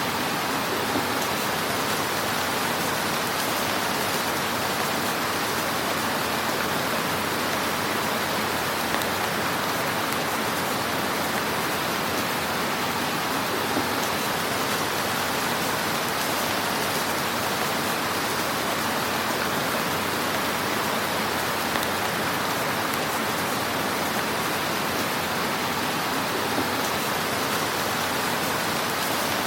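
Fire burning in a fireplace: a steady hiss with a few faint crackles.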